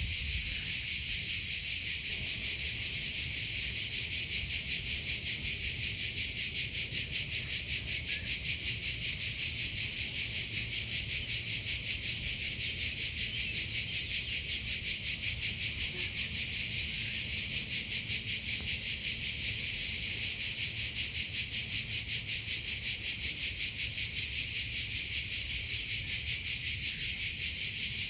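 Cricket chirping in a steady, rapid, even pulsing trill that runs on without a break.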